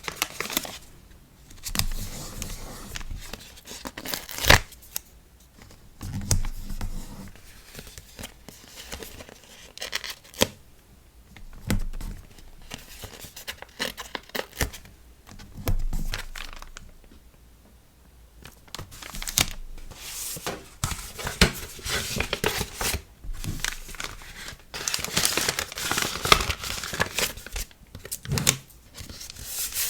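Close-up handling of paper and plastic packaging while an order of stickers is packed: crinkling, tearing and rustling, with many scattered sharp taps and clicks. The crinkling is busiest for several seconds past the middle.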